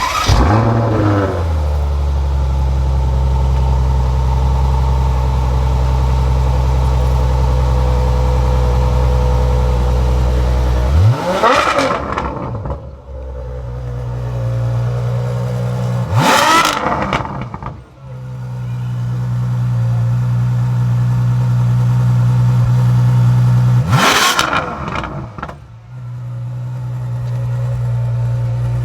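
Ferrari F12tdf's naturally aspirated V12 fired up, flaring loudly and settling to a steady idle, then blipped hard three times, the revs rising sharply and falling straight back to idle each time.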